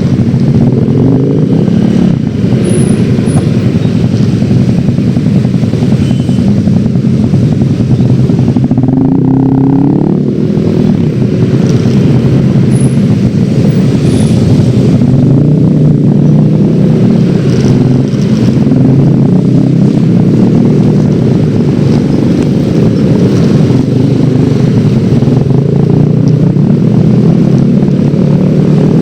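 Yamaha X-Ride 113cc scooter's single-cylinder engine running on the road, its pitch rising and falling as the speed changes.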